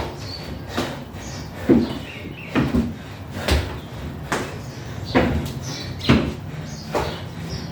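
Feet thudding on and off a 20-inch box during dumbbell step-up-and-overs, a thud a little less than once a second in a steady rhythm.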